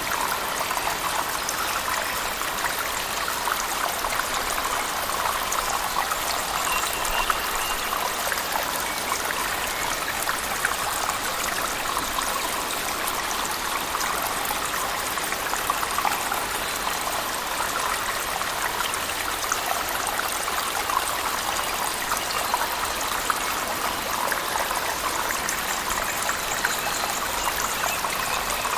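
Steady splashing of a waterfall in a cave mixed with heavy rain, an even wash of water noise with small scattered drips and splashes.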